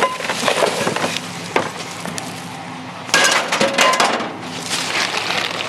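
Metal scrap and junk being rummaged through by hand: clattering and clinking of pans and pieces of metal, with a busier burst of clatter a little past halfway. A steady low hum runs underneath.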